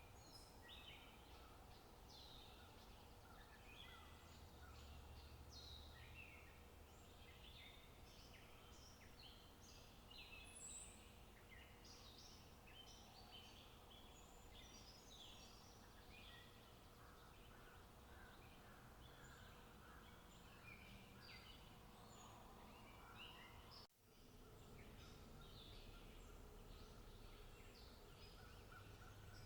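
Faint birds chirping, many short high calls overlapping, over a low steady background hum, with a brief dropout about three-quarters of the way through.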